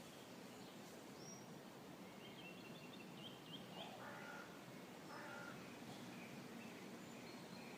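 Faint outdoor birdsong over quiet background: a quick run of high chirps from a small bird a little over two seconds in, then two short caws from a crow around four and five seconds.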